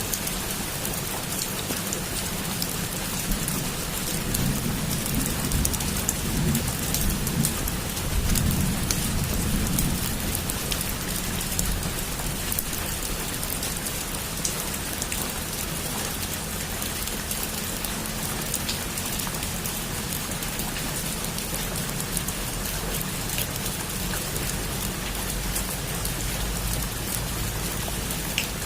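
Heavy rain falling steadily, with individual drops ticking on a surface. A low rumble of thunder swells and fades a few seconds in.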